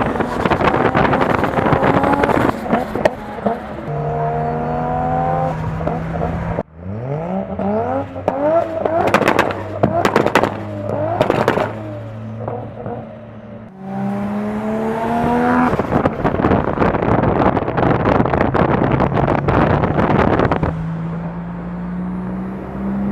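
Modified Nissan Skyline R34 GT-R's twin-turbo straight-six engine accelerating hard, its pitch climbing through the gears and then holding, in three separate runs cut abruptly together. During the middle run there are several sharp cracks.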